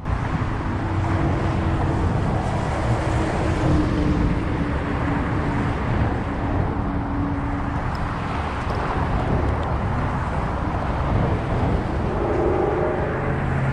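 Steady road traffic noise from the causeway highway, a continuous rush of passing vehicles with a faint engine hum.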